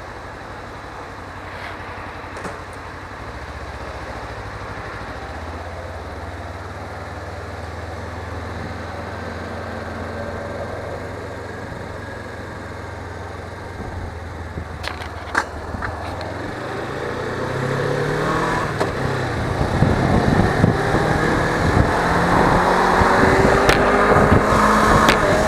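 Suzuki V-Strom 250's parallel-twin engine running at low, steady revs, then accelerating from about two-thirds of the way in, its pitch climbing. Wind noise on the microphone grows with the speed, and a few sharp clicks sound around the middle.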